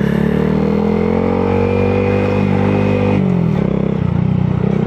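Honda Grom's single-cylinder engine pulling away under throttle, its pitch rising slightly and holding. About three seconds in the pitch drops sharply and it falls back to a low, pulsing run.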